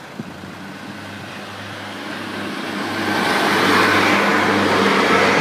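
A Northern Class 142 Pacer diesel multiple unit passes through the level crossing. Its diesel engine drones steadily under a rushing wheel-and-rail noise that grows louder over the first few seconds and stays loud near the end.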